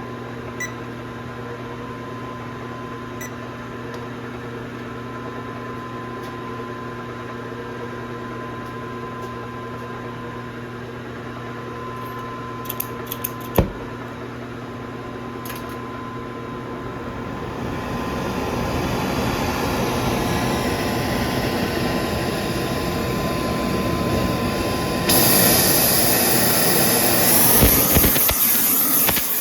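Steady electrical hum of shop equipment with two short beeps near the start and a sharp knock about halfway through, then a hissing noise that builds from a little past halfway and jumps louder near the end.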